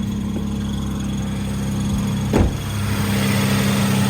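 Car engine idling steadily soon after a cold start. About two-thirds of the way through there is a single knock, after which the running sound grows a little louder.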